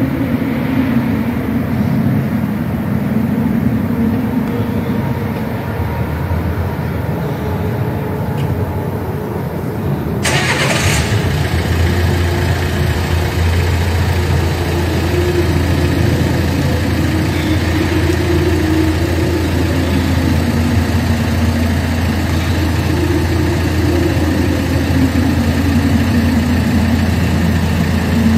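Motor vehicle engines running, with a steady low hum and a brief burst of hissing noise about ten seconds in.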